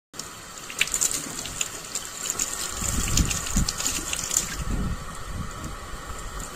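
Water gushing and splashing steadily, with scattered small clicks and irregular low rumbles.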